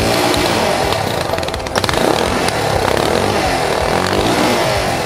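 Yamaha XT660Z Ténéré's single-cylinder engine running and revving up and down unevenly, the loaded bike being eased through a tight spot at walking pace under its own power.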